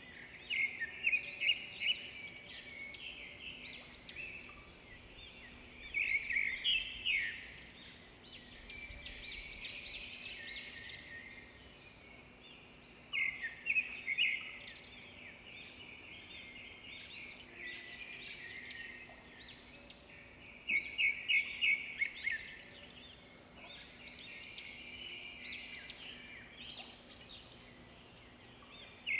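Birds chattering: clusters of quick, high chirping calls that come in bursts every few seconds.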